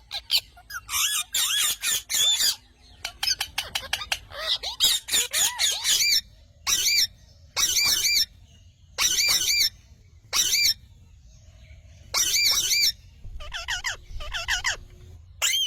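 Parrot squawking: a rapid run of harsh, wavering screeches, then single screeching calls about every second or so.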